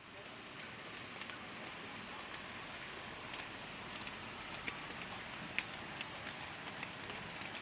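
Rain falling steadily: an even hiss of rain with scattered sharp ticks of single drops hitting a nearby surface.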